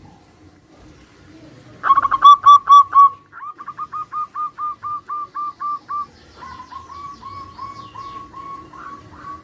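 Zebra doves (perkutut) singing their staccato cooing song. It opens about two seconds in with a loud burst of quick notes, then runs into a steady series of about a dozen evenly spaced coos, and a fainter series follows in answer from about six and a half seconds.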